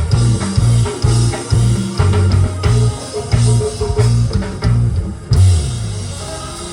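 Live gospel band playing, with heavy bass guitar and drum kit pulsing about twice a second, ending on one last loud hit about five seconds in that rings out and fades.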